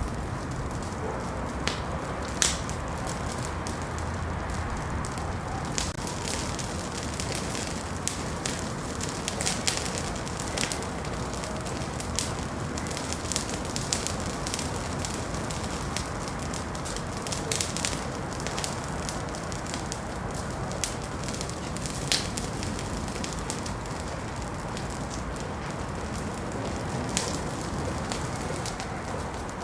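Wood fire burning in a fireplace: a steady low hiss with irregular sharp crackles and pops scattered throughout.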